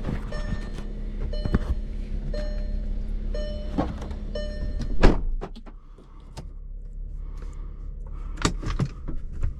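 Sounds inside a car: a steady hum with a short tone repeating about once a second, then a sharp knock about five seconds in, followed by quieter scattered clicks and knocks.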